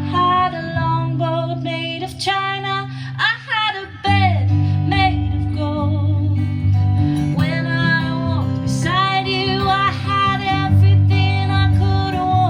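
A woman singing a song over acoustic guitar.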